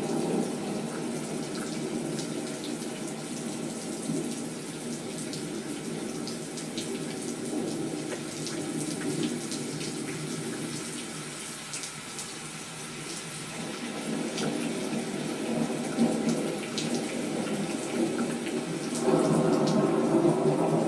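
Steady rain falling, a dense hiss with scattered drop ticks, growing heavier and louder about nineteen seconds in.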